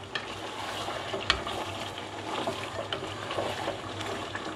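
Beef pieces sizzling in thick, reducing gravy in a nonstick pan while a wooden spoon stirs and scrapes them, with one sharp tap about a second in. The gravy is being cooked down until it dries.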